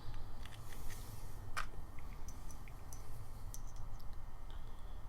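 Faint, scattered clicks and taps of small metal parts being handled while an M6 thread is tried for size, with one sharper click about a second and a half in, over a low steady hum.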